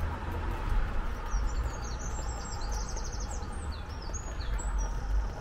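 Small birds chirping and singing outdoors, short high calls starting about a second in with a quick trill about three seconds in, over a low steady background rumble.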